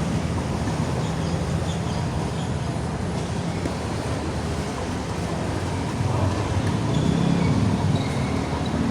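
Steady low rumble of a vehicle engine, growing louder about six seconds in.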